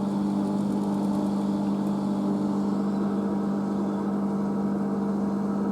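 Washing machine in its final high-speed spin: a steady motor hum holding one pitch.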